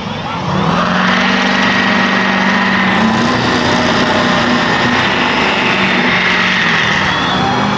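A vehicle engine revs up about half a second in and is held at high, steady revs, as in a run through a mud hole.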